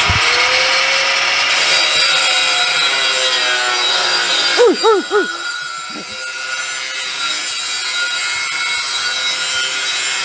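Power grinder spinning up and working on steel exhaust pipe: a steady, loud, high hiss with a whine. A brief wavering pitched sound comes about halfway through.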